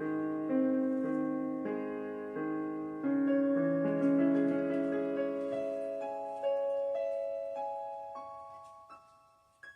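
Piano playing slow, sustained chords and notes that gradually fade out, with a few single high notes near the end.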